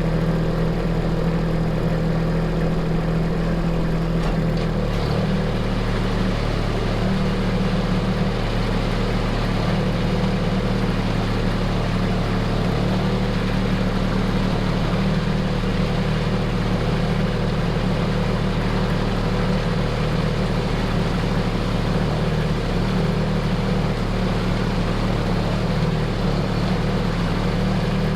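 A machine engine running steadily. Its pitch steps up slightly about five seconds in as the engine speeds up a little.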